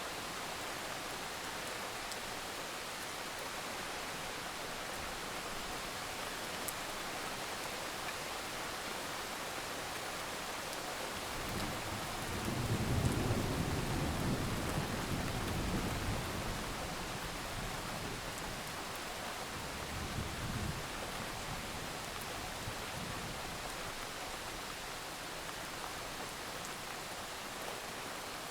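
Steady rainfall with a roll of thunder: a low rumble builds about twelve seconds in, peaks and dies away over several seconds, and a shorter, fainter rumble follows a few seconds later.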